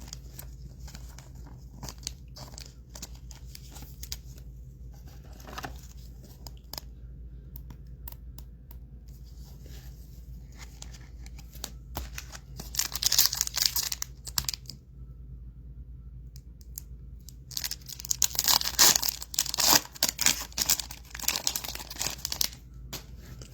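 Trading card pack wrappers being torn open and crinkled, in two spells of tearing, one about halfway through and a longer one near the end, with light clicks of cards being handled before them.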